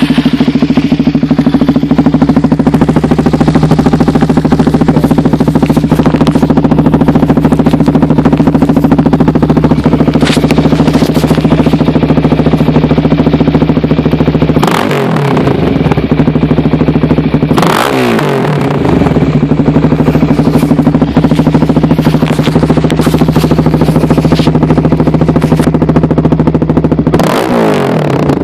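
A 2015 Suzuki DR-Z400SM's single-cylinder four-stroke engine, just started, idles steadily through an MRD Z-Pro aftermarket exhaust. Three quick throttle blips break the idle: one about 15 seconds in, another about three seconds later, and a last one near the end.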